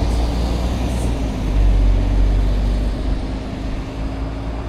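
Road vehicle engine running: a steady low rumble with a steady hum above it, easing a little near the end.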